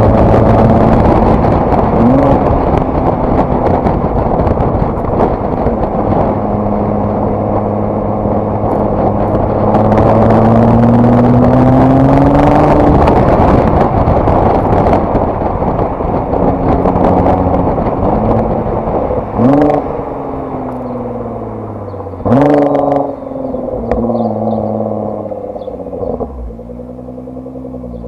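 Nissan GT-R R35's twin-turbo VR38DETT V6 under way: engine and intake noise climbing steadily in pitch as it pulls, then two sharp rev blips about two thirds of the way through, before it settles to a steady low hum near the end.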